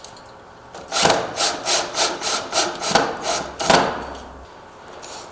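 A quick run of rasping, scraping strokes, about three a second, that lasts some three seconds.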